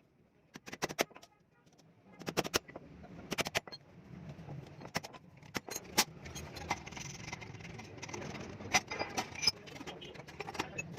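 Irregular sharp metallic clicks and clinks of metal parts being handled, with a steady background rumble building up from about two seconds in.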